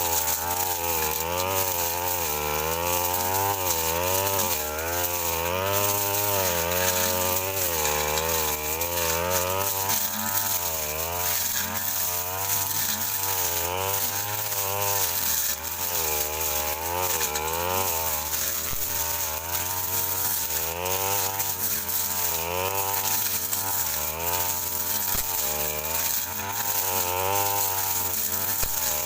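Brush cutter engine running at high speed while its blade cuts through thick brush, the engine pitch dipping and rising again about once a second as the blade takes and sheds load.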